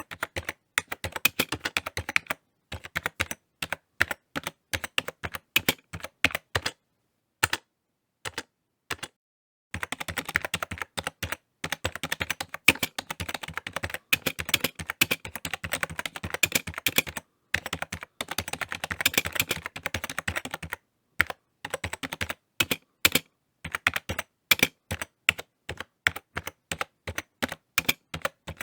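Typing on a computer keyboard: runs of quick key clicks broken by short pauses, with a fast, dense burst in the middle.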